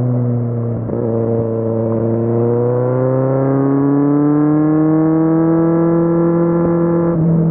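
Kawasaki Z750's inline-four engine under way. Its pitch holds, then climbs steadily as the bike accelerates, and changes abruptly near the end.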